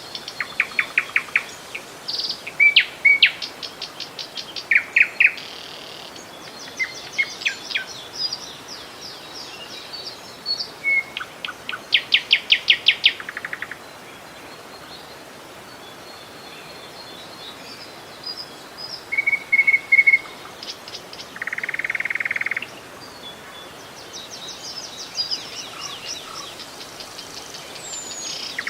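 Songbirds calling and singing in short chirps and rapid trills, with a buzzy note a little past the middle, over a steady rush of running river water.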